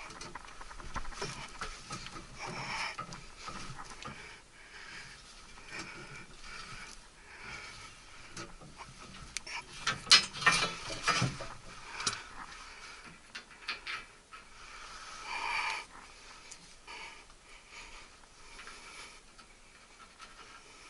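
Irregular clicks, scrapes and rattles of tools and small metal parts being handled, with a burst of sharper clicks about ten to twelve seconds in.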